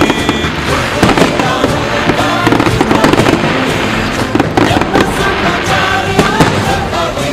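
Fireworks going off in quick, irregular succession, a dense run of bangs and crackles, over loud music.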